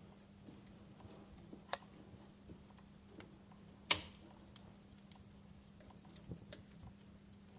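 Wood fire crackling sparsely: scattered small ticks and snaps, with one sharp, loud pop about four seconds in and a smaller one a couple of seconds earlier.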